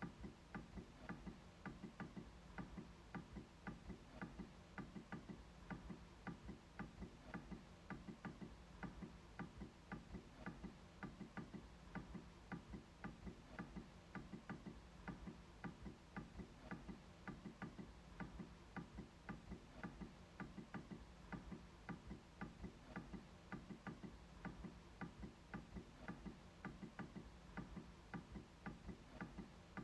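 MacBook trackpad being clicked over and over at a steady pace, about three faint clicks a second.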